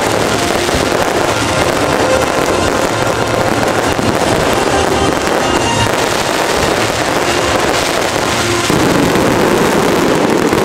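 Aerial fireworks bursting and crackling in a dense, continuous barrage, with music playing under it. The barrage grows louder about three-quarters of the way through.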